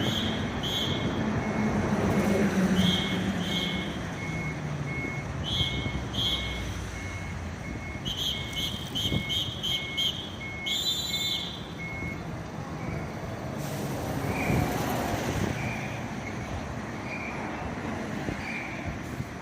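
Fire truck engine running, with a reversing alarm beeping quickly and evenly at one pitch for most of the time, plus groups of higher short beeps; after about twelve seconds the beeps change to a slower, different pattern.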